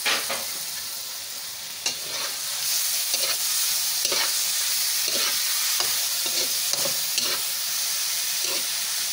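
Chopped tomatoes and onions sizzling in hot oil in a steel pan, with a metal spatula scraping and stirring in repeated strokes; the tomatoes have just gone in. The sizzle grows louder about three seconds in.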